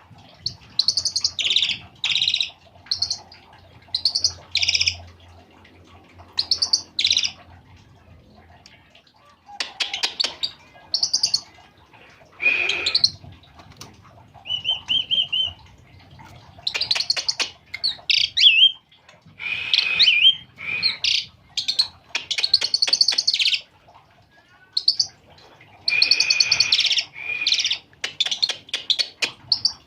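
Jalak uren (Asian pied starling) singing in repeated bursts of chattering, whistled phrases, each a second or two long with short pauses between.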